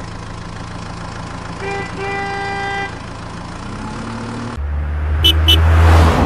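Vehicle engine sound effect running steadily, with a car horn honking twice about two seconds in, one short toot and then a longer one. Near the end the engine grows louder and deeper, and two quick high beeps sound.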